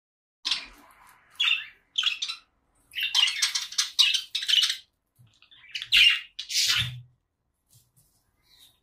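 Female eclectus parrot squawking: a string of short, harsh calls, with a dense run of them about three to five seconds in and two more near six and seven seconds.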